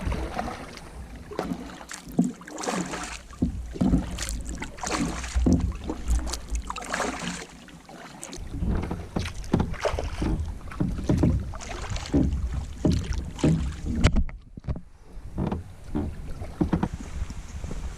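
Canoe paddling: a paddle dipping and splashing in the water in repeated, somewhat irregular strokes, with wind rumbling on the microphone for the second half.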